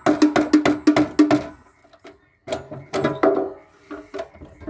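Rapid series of sharp knocks on metal with a ringing tone, about five or six a second for a second and a half, then a second cluster of knocks near the middle, as parts of a solar inverter are struck and worked loose during dismantling.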